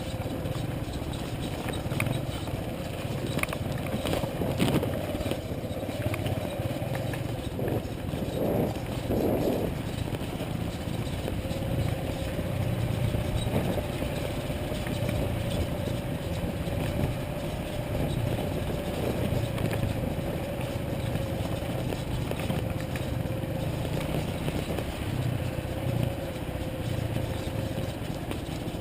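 Motorcycle engine running steadily while being ridden, with a low rumble, a held whine and a few scattered ticks.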